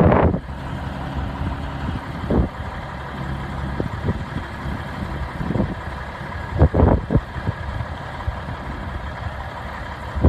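1993 Peterbilt 379 truck's diesel engine idling steadily, with a few brief gusts of wind hitting the microphone.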